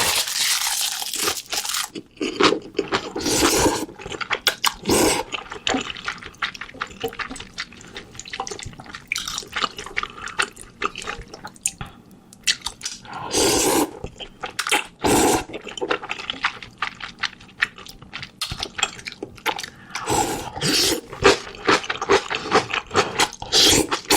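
Close-miked eating sounds: a run of quick wet mouth clicks and chewing, broken by several longer slurps.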